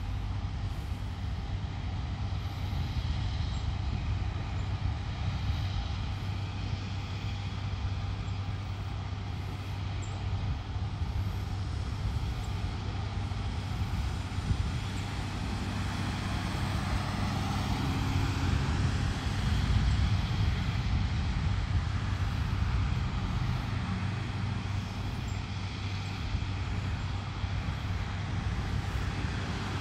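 A steady low rumble with a constant hum, like a motor running nearby, that swells slightly about two-thirds of the way through.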